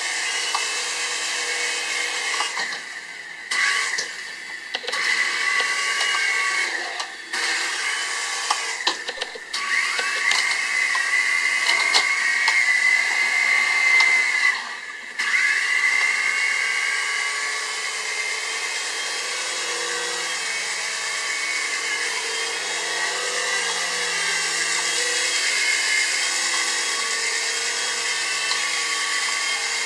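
QS9005 3-channel RC helicopter's electric motors and rotors whirring, the whine shifting in pitch as the throttle changes. It drops away briefly several times in the first half, then runs steadily.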